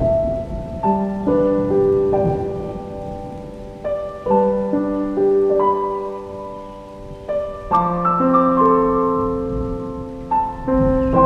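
Slow, gentle piano music: soft chords held and left to ring, with a new group of notes struck every couple of seconds.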